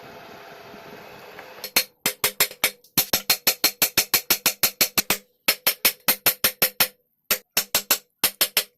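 A steady hum, then a long series of sharp strikes, about four a second, in runs with short pauses between them.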